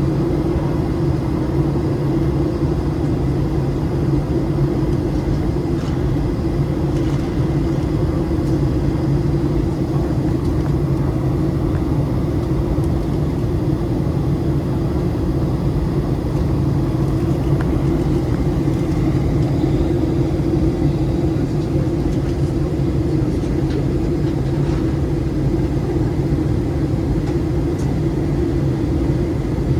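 Steady in-cabin drone of a Boeing 737-700 on descent: engine and airflow noise with an even, low two-note hum that does not change.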